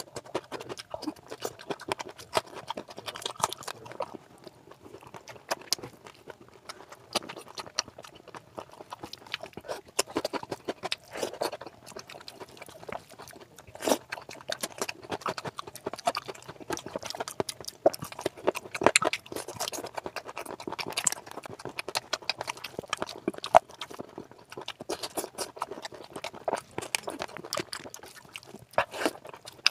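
Close-up wet chewing and lip smacking of a person eating oily curry and rice by hand, with squelching as the fingers mix and scoop the curry-soaked rice; many sharp irregular clicks and smacks throughout.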